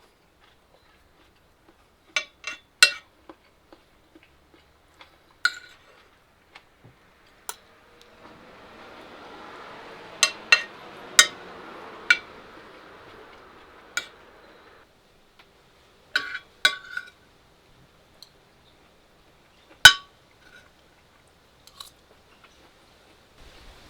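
Dishes and utensils clinking against each other in scattered groups of sharp, ringing knocks, the loudest near the end. A soft hiss rises under the clinks for several seconds in the middle.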